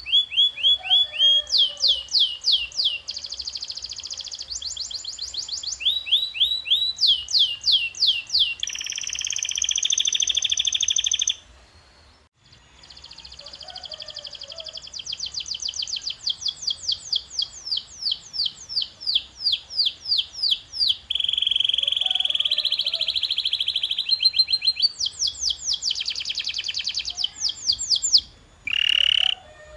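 Domestic canary singing a long song made of rapid trills and runs of repeated down-sweeping notes, switching to a new phrase every few seconds, with a short break about twelve seconds in.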